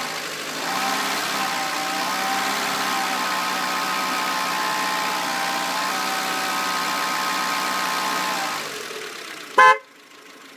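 Renault Clio 1.2 16V four-cylinder engine running steadily with the whining, rattling noise the owner is asking about. Its sound dies away near the end, followed by one short, loud beep.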